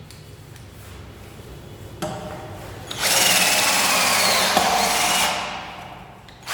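12V brushless cordless drill run free by its trigger: a brief blip about two seconds in, then a loud motor whine for about two seconds that slides in pitch as the speed changes, before winding down.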